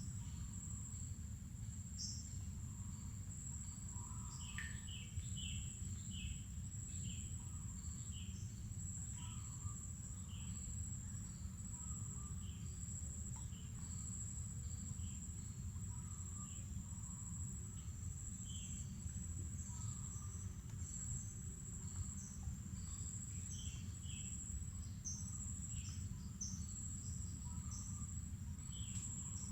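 Insects keeping up a steady, unbroken high-pitched trill, with many short bird chirps and calls scattered through it, over a low steady rumble.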